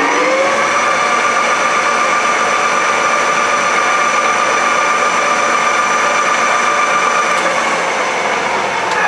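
Yang engine lathe's geared headstock and spindle running at high speed, around 1500 rpm, with a steady multi-tone gear whine. It comes up to speed just after the start and begins to wind down, pitch falling, at the very end.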